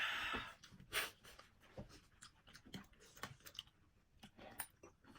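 A person eating noodles close to the microphone: a short noisy burst at the start, a sharper smack about a second in, then quiet wet chewing with small scattered clicks.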